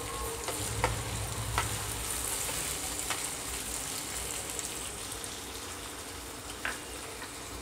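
Chopped tomatoes and dal sizzling steadily in oil in a nonstick kadai as a spatula stirs them, with a few sharp taps of the spatula against the pan.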